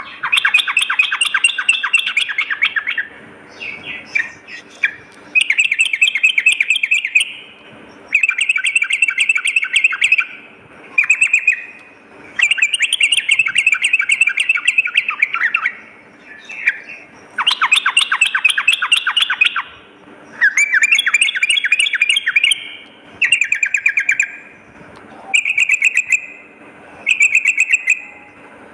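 Yellow-vented bulbul (trucukan) singing a gacor song: quick runs of rapid, bubbly notes in phrases of one to three seconds, repeated again and again with short pauses between them.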